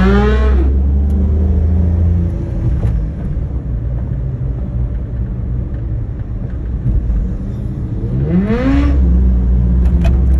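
BMW superbike engine revved hard twice, about eight seconds apart. Each time the pitch climbs quickly and then drops back, over the steady low rumble of the bike running.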